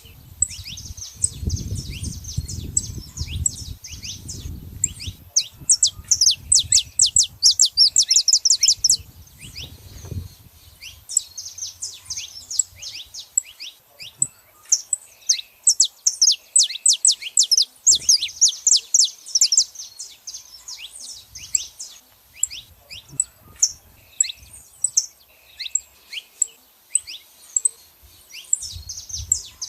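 Saffron finches, a male and female pair, calling: a steady stream of sharp, quick chirps, packed into two dense rapid runs about six and fifteen seconds in.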